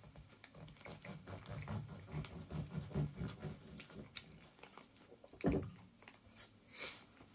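A person chewing a mouthful of croissant close to the microphone, a run of soft crackly, wet mouth sounds for about four seconds. A single thump comes about five and a half seconds in, followed shortly by a brief rustle.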